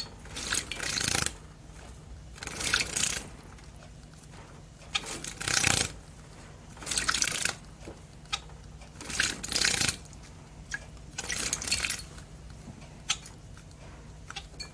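Bengalese finches bathing in a shallow water dish: bouts of fluttering splashes, each lasting about a second and coming every second or two, with small drips and ticks between them.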